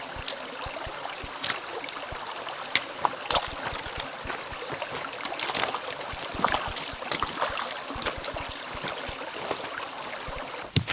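Creek water running steadily, with irregular clicks and knocks of footsteps on rocks.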